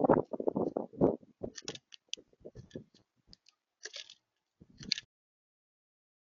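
Irregular knocks, clicks and crunching from birds or squirrels feeding at a bird feeder close to the camera's microphone. The sounds are dense at first, thin out, and stop about five seconds in.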